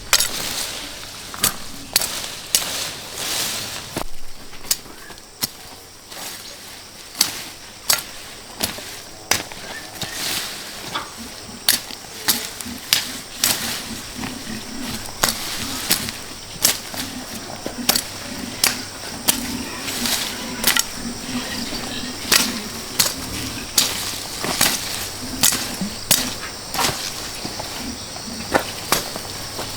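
Repeated chopping: sharp, irregular strikes about once a second, like a blade cutting into wood or bamboo.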